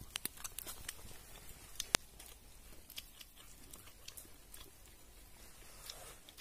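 A person chewing and crunching cooked banana skipper caterpillars, with scattered crisp clicks and one sharper snap about two seconds in.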